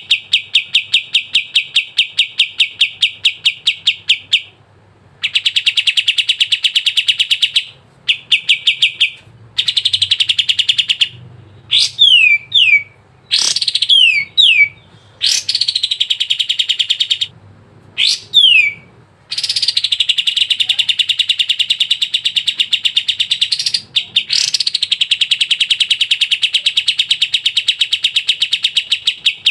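Kapas tembak singing in full song: long rapid trills of repeated notes, broken by short pauses, with a run of quick downward-sliding whistles in the middle.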